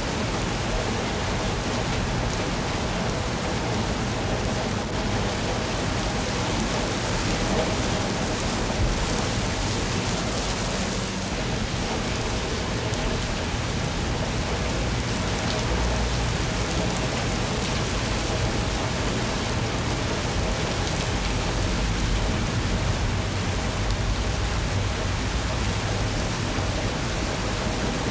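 Steady rain falling on surfaces, with a low rumble underneath.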